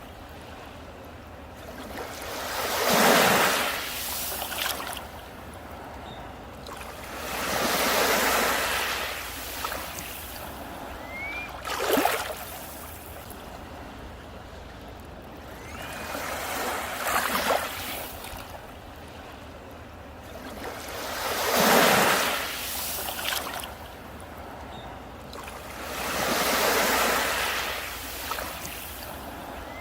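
Sea waves breaking on a beach, one every four to five seconds, each swelling to a crash and washing back out.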